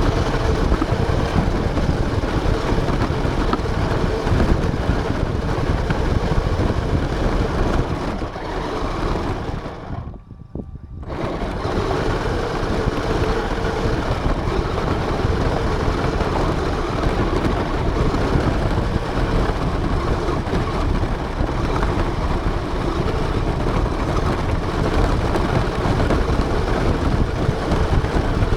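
RC car running, heard from a camera mounted on the car: dense motor, drivetrain and tyre noise with a steady hum. About ten seconds in it drops away sharply for roughly a second, then comes back.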